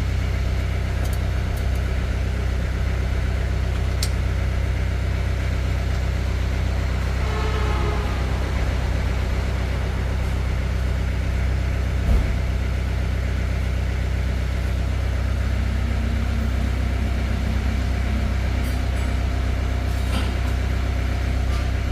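An engine running steadily at idle, with one short thump about twelve seconds in.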